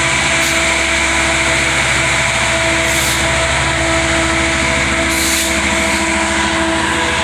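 Diesel locomotive engine of an Amtrak F59PHI running steadily, with a fast, even low throb under a steady whine.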